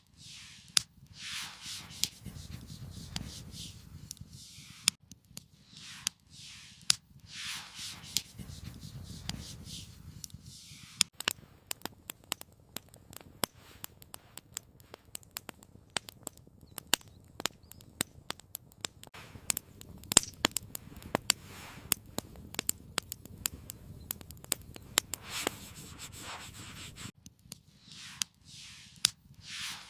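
Wood campfire crackling, with many sharp, irregular pops and snaps that come more thickly in the second half. In the first ten seconds several soft whooshing swells rise and fall under the crackle.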